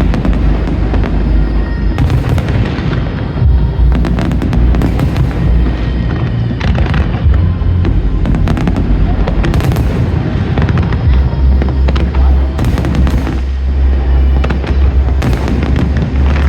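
Aerial fireworks display: shells bursting in quick succession with booms and sharp cracks, over loud music.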